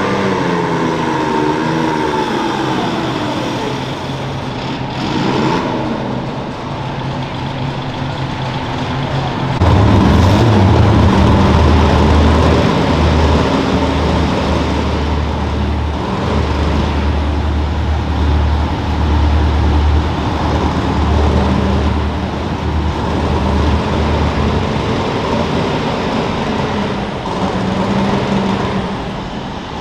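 Pulling garden tractor's engine running hard, its pitch falling over the first few seconds, then a loud, uneven low rumble from about ten seconds in.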